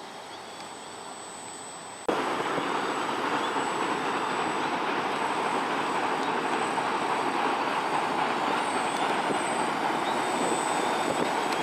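XAircraft X650 quadcopter's motors and propellers running with a steady, even whir that starts abruptly, loud, about two seconds in, after a quieter stretch.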